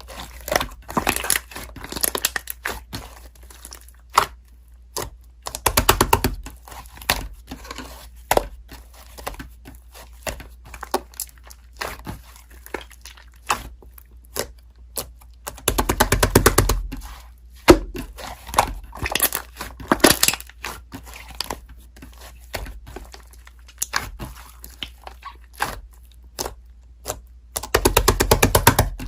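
Slime being squished and pressed by hand, making runs of rapid crackling clicks and pops, four times, with single pops scattered in between.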